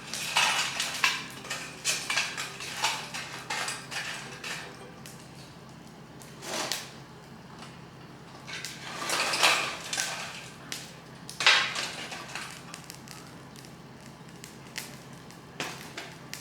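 Lumps of charcoal clattering and scraping against the metal of a homemade wood gas stove as they are handled and shifted. The knocks come in irregular bunches: a dense run at the start, then separate clatters at about 7, 9 to 10 and 11.5 seconds.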